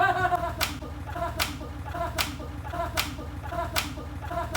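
Sharp claps or slaps repeating evenly, six in all, about one every 0.8 seconds, each just after a short pitched voice-like sound.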